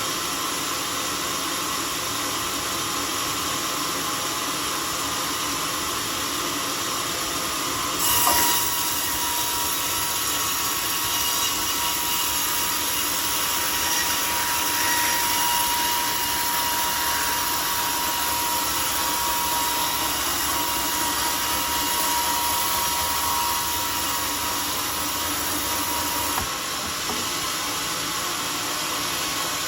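Homemade sawmill running steadily while sawing a teak log. About eight seconds in, the sound brightens and a steady high whine sets in; it holds until a few seconds before the end, as the blade works through the cut.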